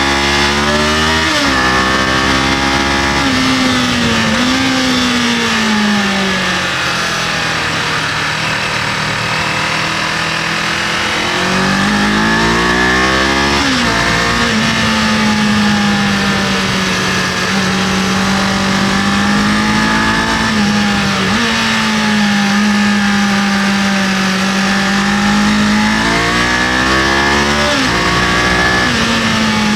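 Kawasaki KLE500's parallel-twin engine under way, revving up through the gears with sudden drops in pitch at each shift, easing off, then holding a steady cruise before pulling up again near the end. Wind rushes over the microphone throughout.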